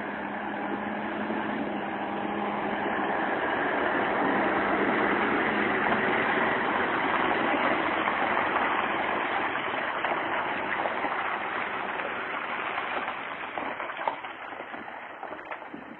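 Scania 143 truck's V8 diesel with a straight-through exhaust pipe running, growing louder over the first six seconds or so and then fading away toward the end.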